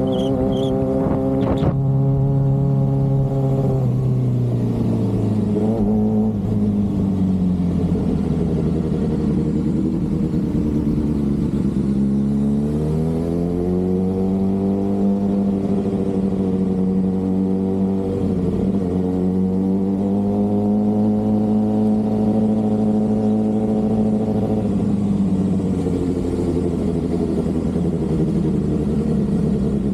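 Sport motorcycle engine running while riding. The engine note drops about three seconds in, climbs again around twelve to fourteen seconds in, then holds a steady cruising pitch with a couple of small dips.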